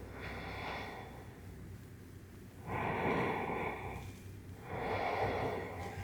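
A woman taking deep, audible breaths: three long breaths about two seconds apart, the first softer than the other two.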